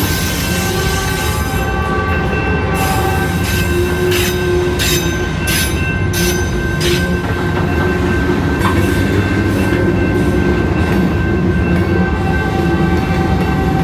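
Train rolling past: a steady rumble of wheels on rail with a high, steady wheel squeal, and a run of sharp clicks from the wheels between about two and seven seconds in.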